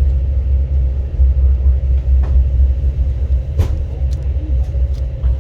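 Moving passenger train: a steady, loud low rumble, with a few sharp clicks.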